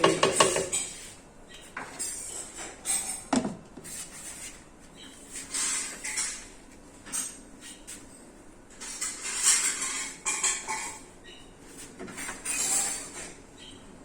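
Kitchen clatter: pots, pans and utensils being handled, with scattered knocks, scrapes and clinks.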